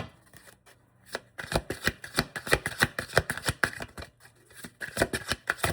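A deck of tarot cards being shuffled by hand: a quick run of papery card slaps starting about a second and a half in, a short break, then shuffling again near the end.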